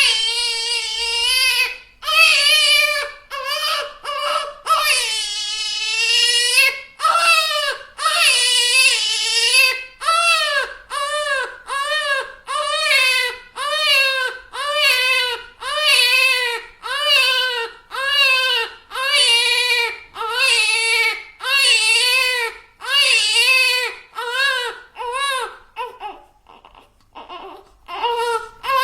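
Baby crying: long drawn-out wails in the first ten seconds, then short rhythmic cries about one a second. Near the end the crying drops to quiet whimpers before starting up loudly again.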